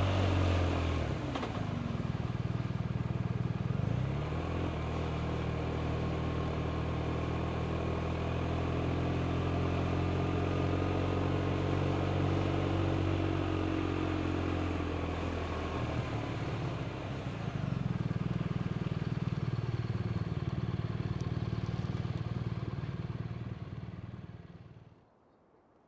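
BMW R 1250 RT's boxer twin engine running under way, with wind and road noise; the engine note changes pitch a couple of times. Near the end the sound falls away sharply to near silence.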